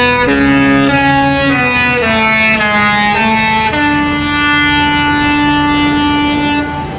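Disney cruise ship's musical horn playing a tune, a string of short notes ending on one long held note that cuts off near the end, with wind rumbling underneath.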